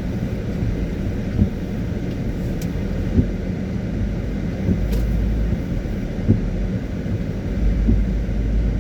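Car driving in the rain: a steady low rumble of engine and tyres on a wet road, with a few short knocks.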